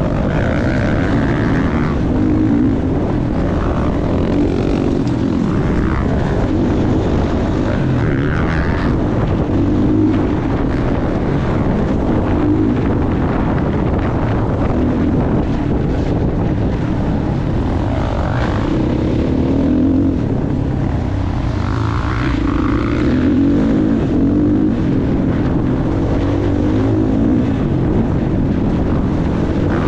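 Motocross bike engine ridden hard around a dirt track, its revs repeatedly rising and falling with throttle and gear changes.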